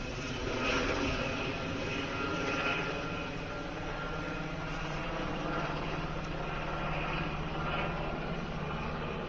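Helicopter running steadily: a continuous low drone of rotor and turbine, with a faint steady whine over it.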